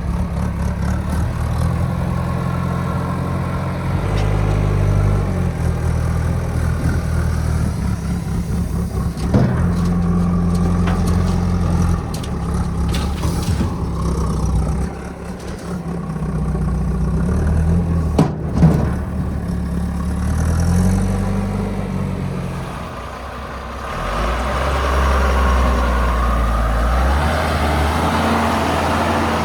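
JCB 3DX backhoe loader's diesel engine working, its revs rising and falling as the hydraulics load. Two sharp knocks stand out, one about nine seconds in and one about eighteen seconds in.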